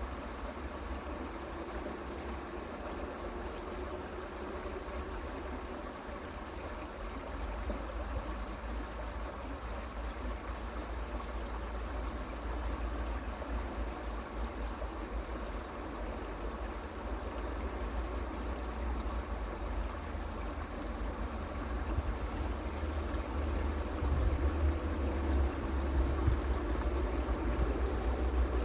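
Stream water flowing steadily, an even rushing trickle, with a low rumble underneath that grows louder near the end.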